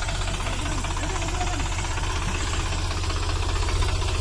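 Sonalika 745 tractor's three-cylinder diesel engine running steadily, with an even low throb.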